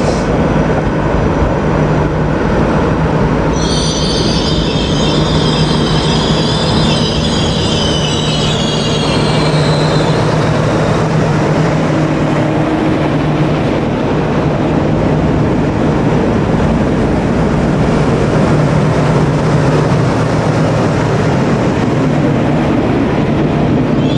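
Network Rail rail milling train DR 79102–79105 passing close by: a steady low engine hum over the constant rumble of wheels on rail. High wheel squeal sets in about four seconds in, fades out around ten seconds, and starts again at the very end.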